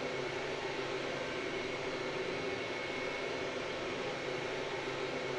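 Airbus A318 jetliner in flight: a steady, even rush of engine and airflow noise with a faint high whine running through it.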